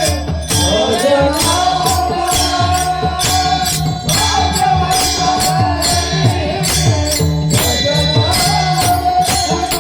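Marathi devotional bhajan: a male lead singer holds long, ornamented notes over a steady beat of jingling hand cymbals and drum.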